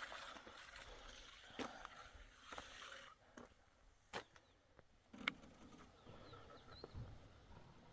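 Near silence with a few faint, scattered knocks and clicks, one every second or so.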